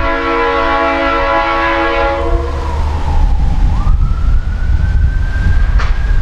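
A diesel locomotive's multi-chime air horn sounding a held chord that cuts off about two and a half seconds in. A siren takes over, wailing down and then swooping up to hold a high pitch, over a heavy low rumble.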